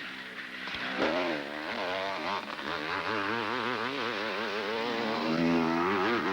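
Motocross motorcycle engines at race speed, the pitch rising and falling several times a second as the riders work the throttle over the bumps.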